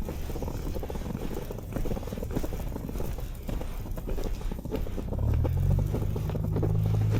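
Footsteps crunching through fresh snow, with the low steady hum of a vehicle engine coming in about five seconds in.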